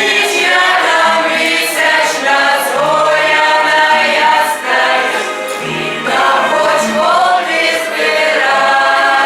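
A group of voices singing a Ukrainian folk song together in chorus, with a few held low notes underneath.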